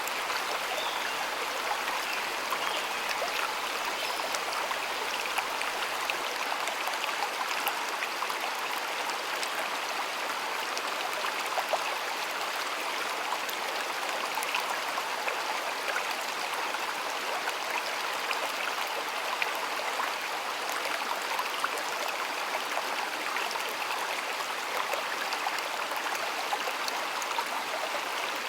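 A shallow stream of water flowing and babbling steadily, with small splashes and trickles throughout.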